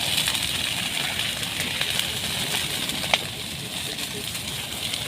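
Wildfire in brush and forest crackling, with scattered small pops and one sharper snap about three seconds in, over a steady hiss.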